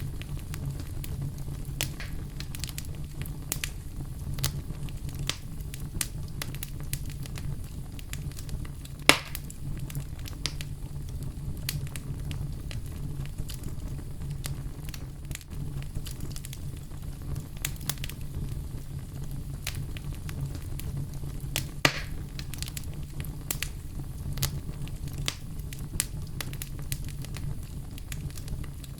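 Wood campfire burning: a steady low rumble with frequent sharp crackles, and two louder pops, one about nine seconds in and one about two-thirds of the way through.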